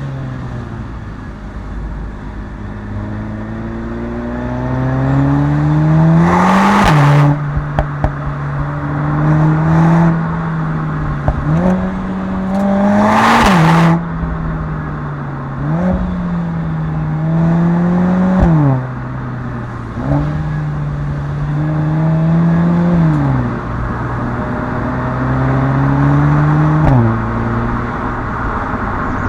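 Mercedes-AMG A45 S's turbocharged 2.0-litre four-cylinder engine and exhaust under hard acceleration. The pitch climbs and then drops sharply at each gear change, with a few quick jumps back up. Two loud rasping bursts from the exhaust come at gear changes, about a quarter of the way in and near the middle.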